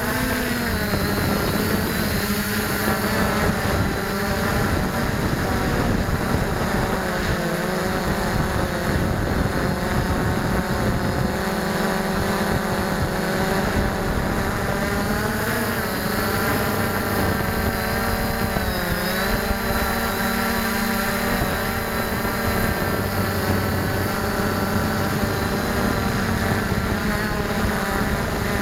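Drone propellers humming steadily, the pitch shifting with motor speed and dipping and rising again about two-thirds of the way through.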